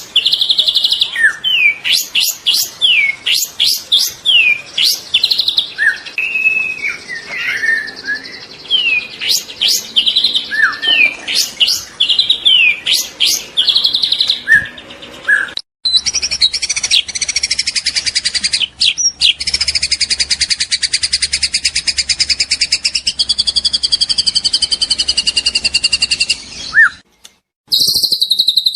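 A juvenile white-rumped shama singing: varied loud whistles, pitch sweeps and sharp chirps. About halfway through, the song cuts off abruptly and gives way to a continuous rapid buzzing trill with held tones. After a second brief cut, another loud trill starts near the end.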